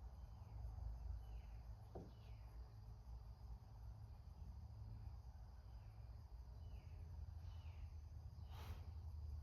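Quiet background: a steady low hum with faint, short downward chirps repeating about once a second, a faint click about two seconds in and a brief rustle near the end.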